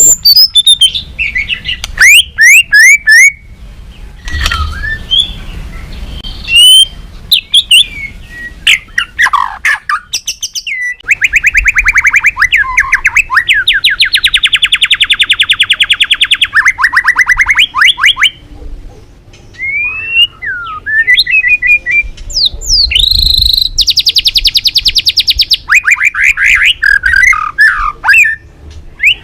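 White-rumped shama singing loudly: varied whistles and quick slurred notes, broken by two long, fast rattling trills, one about a third of the way in and one near the end.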